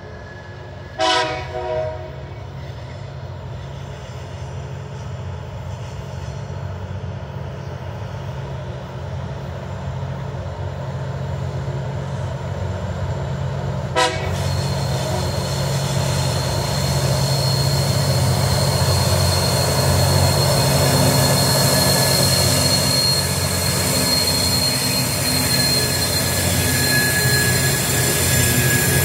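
Diesel locomotives hauling a container freight train uphill, the engine noise growing steadily louder as they approach and pass, with two short horn blasts about a second in. From about halfway a steady high whine joins the engine noise.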